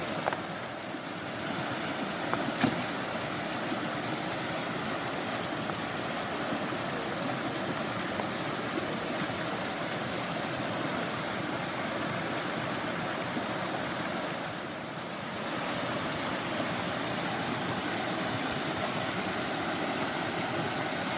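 Mountain stream water rushing, a steady continuous noise that eases briefly twice, with a few sharp knocks in the first few seconds.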